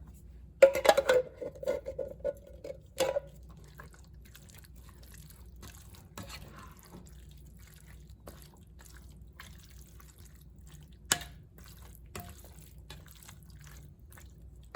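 Canned beans and their liquid poured and scraped out of a metal can into a soup pot, a wet clatter with a ringing note from the can for about two and a half seconds. Quieter light clinks follow, with one sharp knock about eleven seconds in.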